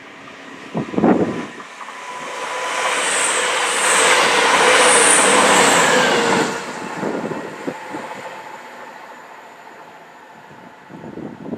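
A modern passenger train passing through the station at speed: a rush of wheels and air that swells, holds for a couple of seconds and fades, with a thin high whine on top. Buffets of wind thump on the microphone about a second in and again near the end.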